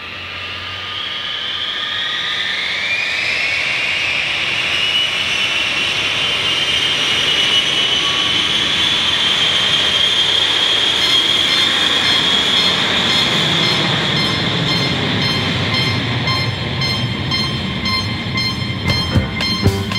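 Docklands Light Railway train pulling away, its traction motors whining in a high tone that rises in pitch and then holds steady as the train runs at speed. Sharp clicks come more and more often over the last few seconds.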